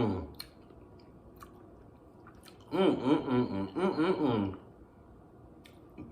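A person eating barbecue chicken wings, with faint chewing and mouth clicks. Near the middle there is a wordless voiced hum of about two seconds, wavering in pitch.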